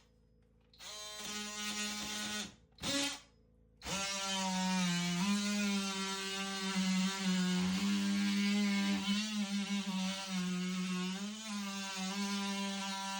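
A small electric motor, like a power tool's, whirring with a steady pitched hum that wavers slightly in pitch. It cuts in and out several times in the first few seconds, then runs continuously.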